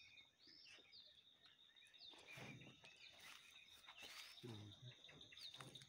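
Faint birdsong: small birds giving short rising and falling chirps again and again, over a steady high thin tone.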